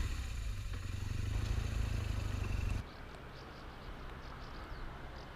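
Motorcycle engine rumble and wind noise while riding. It cuts off abruptly about three seconds in, leaving a quieter steady hiss with faint short high chirps.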